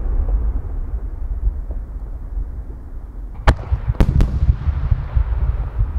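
Aerial firework shells bursting in a starmine display: a steady low rumble, then three sharp bangs in quick succession about three and a half to four seconds in.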